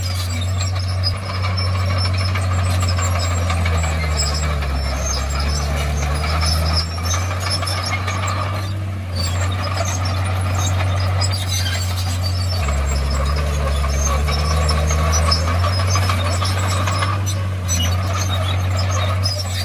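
Komatsu D51PX crawler bulldozer working: its diesel engine runs steadily, and its note drops lower twice for a few seconds as the load changes. High metallic squeaks and clinks from the crawler tracks run over it.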